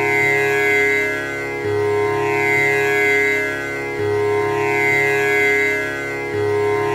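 Tanpura drone: its strings are plucked in a steady cycle that repeats about every two and a third seconds, three times here, over a continuous held pitch with shimmering overtones.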